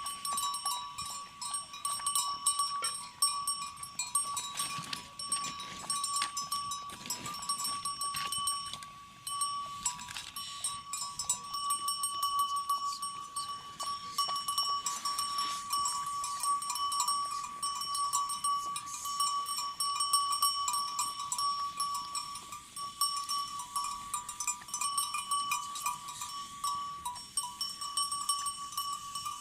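Flock of sheep and goats, with a steady high-pitched tone and many small clicks throughout.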